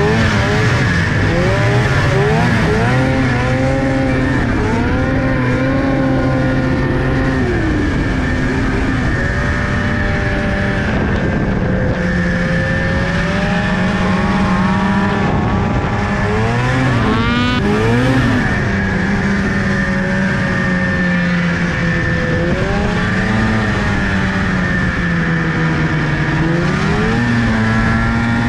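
Car engine being revved up and down again and again while driving, with a sharp rev about two-thirds of the way through.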